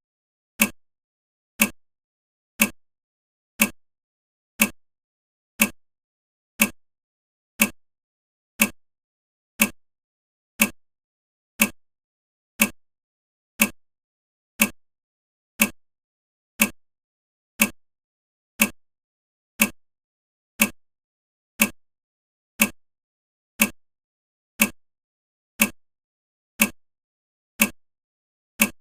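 A single sharp click repeating steadily about once a second, each dying away quickly, with silence between: a tick like that of a clock or metronome.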